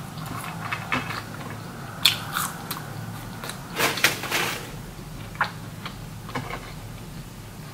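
A person chewing a mouthful of food close to the microphone, with irregular mouth clicks and short bursts of chewing noise.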